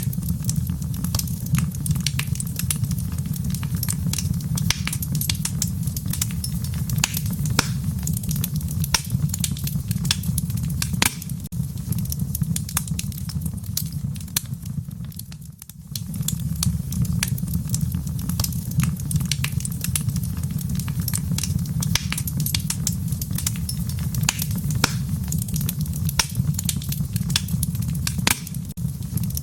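Wood fire burning in a fireplace: constant crackling and popping over a low, steady rumble. The sound dips briefly about halfway through, then carries on as before.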